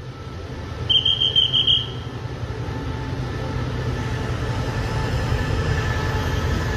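Train pulling into the station behind a diesel locomotive: a steady low engine rumble that slowly grows louder, with a short high-pitched squeal about a second in.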